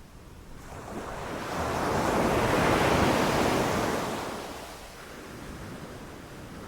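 Ocean surf: one wave swells up, breaks and washes back over about four seconds, and the next one begins to build near the end.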